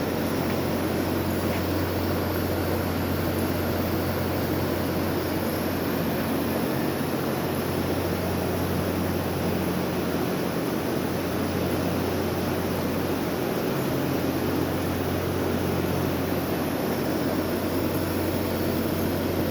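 A 50-inch three-phase industrial exhaust fan running: a steady rush of air over a constant low hum.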